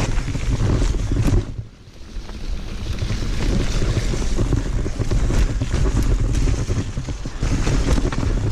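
Wind buffeting the microphone of a chin- or helmet-mounted GoPro on a riding mountain biker, over the rumble of tyres and rattling of the bike on rough trail; the noise drops away briefly about a second and a half in, then picks up again.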